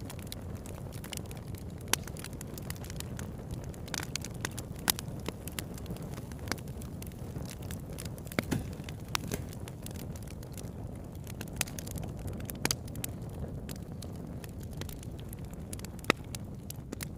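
Campfire burning: a steady low rush of flames with frequent sharp crackles and pops, a few of them louder than the rest.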